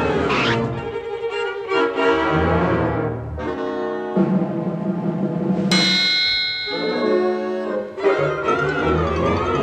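Orchestral cartoon score with brass and timpani, playing a string of short phrases, with a bright, high chord struck about six seconds in.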